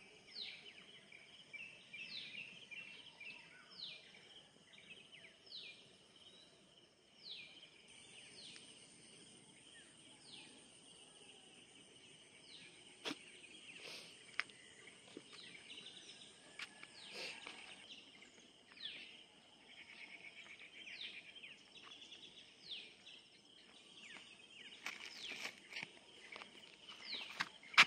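A bird repeating a short call that slides downward in pitch, about every one to two seconds at first and more irregularly later, over a steady high insect buzz. A few sharp clicks come in the middle.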